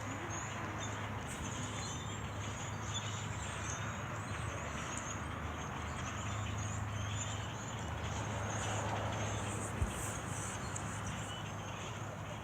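A flock of birds chirping continuously in high, thin calls over a steady low rumble.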